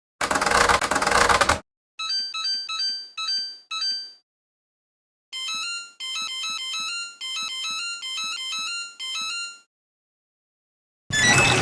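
Washing machine's electronic beeper sounding a few short beeps, then playing a longer jingle of pure electronic tones, bracketed by a short burst of noise at the start and a rush of water starting near the end.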